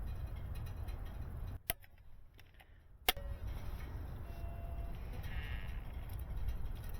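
Steady low rumble with two sharp clicks about a second and a half apart. Between the clicks the rumble drops away, then returns.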